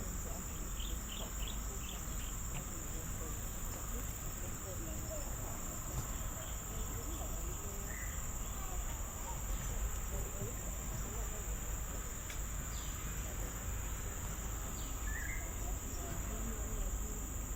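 Steady forest insect chorus, a continuous high-pitched drone, with a few faint short chirps near the start, about halfway and near the end.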